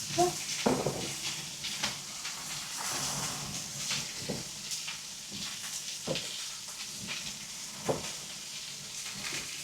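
Food sizzling on a hot marble slab over a fireplace fire: a steady frying hiss with a few scattered clicks and knocks.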